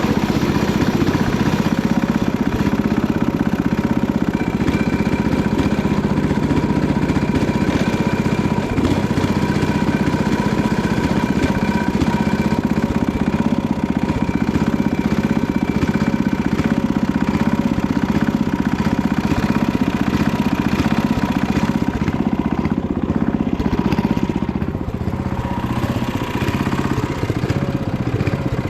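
Panzer T70 tractor's diesel engine running steadily while pulling a plough. It eases off a little about 25 seconds in.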